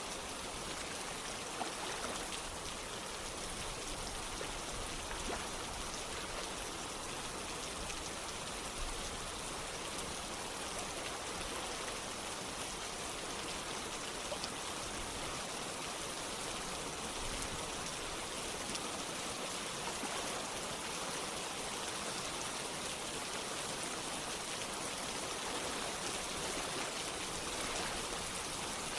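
Steady rain falling together with running water, a continuous even hiss with small scattered drop ticks.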